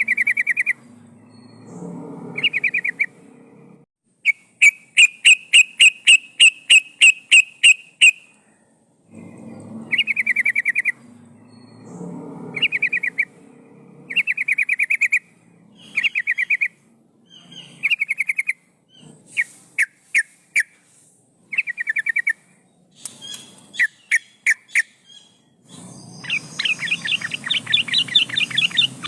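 Yellow-vented bulbul (trucukan) singing: short bubbling phrases repeated every second or two. About four seconds in comes a run of a dozen loud, evenly spaced notes.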